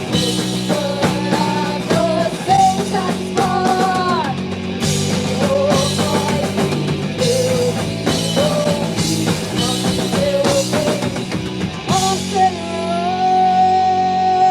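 Rock band playing live: a female lead vocal over electric guitar and drums. About twelve seconds in, the singer holds one long note with vibrato.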